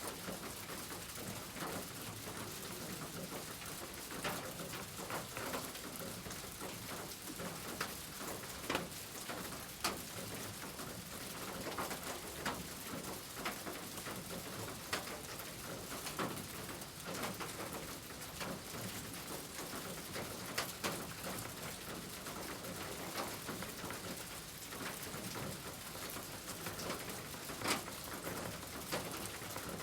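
A steady, rain-like hiss with scattered light taps, and a pigeon or dove cooing.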